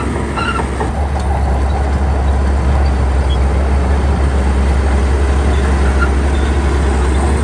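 Shantui crawler bulldozer's diesel engine running, a steady deep drone that grows louder about a second in and then holds level.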